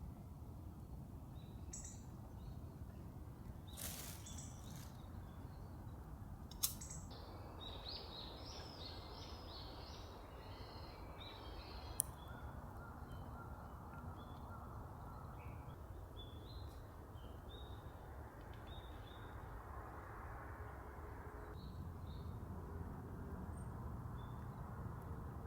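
Small birds chirping in short scattered calls, thickest for a few seconds about a third of the way in, over a faint steady low background noise. Two sharp clicks stand out, about a quarter of the way in and about halfway.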